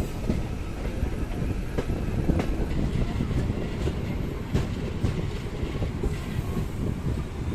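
MEMU electric train running on the rails, a steady rumble with scattered clicks of the wheels over rail joints.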